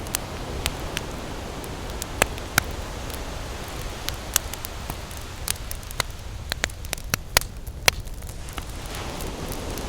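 Campfire crackling, with sharp pops and snaps coming at irregular moments, over a steady low rush of ocean waves.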